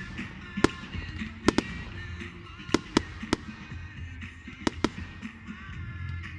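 Fireworks going off as a string of sharp bangs at irregular intervals, about nine in all, several coming in quick pairs, over background music.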